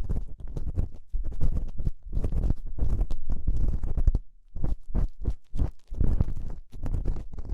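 An ear-cleaning tool scraping and rubbing inside an ear, very close and heavy in the low end, in irregular strokes with a short pause about four seconds in and quicker, shorter strokes after it.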